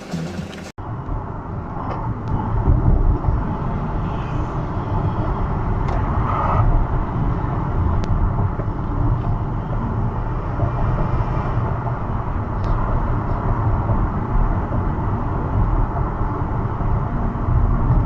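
Steady road and engine rumble of a car driving, with a few faint clicks and no loud impact.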